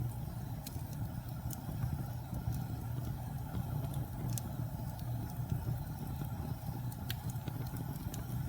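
Wood fire crackling: scattered sharp pops and snaps every second or so over a steady low rumble of burning.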